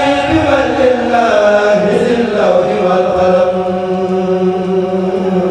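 A kourel chorus chanting a Mouride khassida together, voices holding long drawn-out notes that slide from pitch to pitch.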